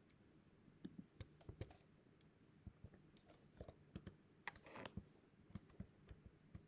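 Faint, irregular computer keyboard typing and clicks.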